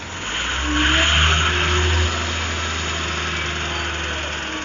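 Truck engine running, swelling louder with added hiss about a second in, then settling to a steady run.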